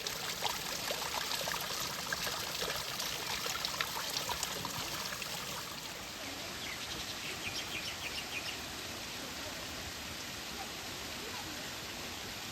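Running water: a steady rush, with quick splashing ticks through roughly the first two thirds that die away, leaving an even flow.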